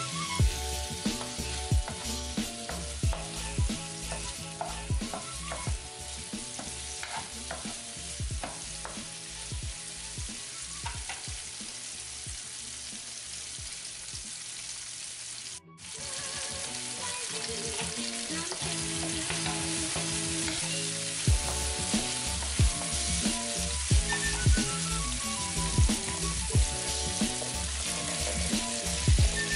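Vegetables sizzling in hot oil in a nonstick wok while being stirred with a wooden spatula, a steady frying hiss. Background music with a steady beat runs underneath. The sound cuts out for a moment about halfway through.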